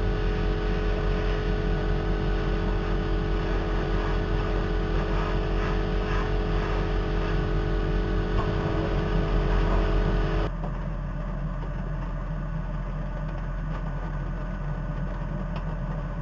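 Workshop extractor fans running steadily at full blast during spray painting, a constant humming drone. About ten seconds in the sound changes abruptly to a quieter, duller hum.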